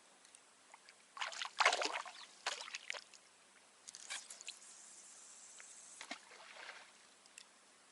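Water splashing and sloshing in a few short irregular bursts, the loudest a second or two in.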